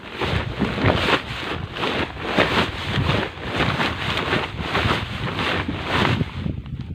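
Wind buffeting the microphone: a loud rushing noise that swells and drops in uneven gusts a few times a second.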